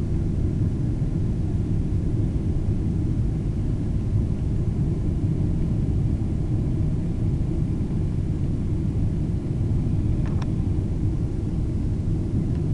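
Steady low rumble inside the cabin of a Boeing 777-200 airliner, its engines and airflow, with a faint click about ten seconds in.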